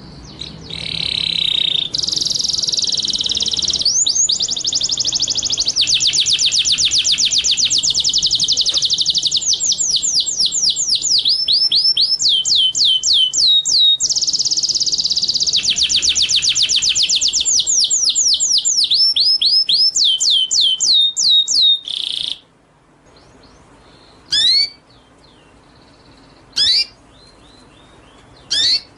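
A songbird singing long, fast trills of high repeated notes for about twenty seconds. The song then stops, leaving three single sharp upslurred calls a couple of seconds apart.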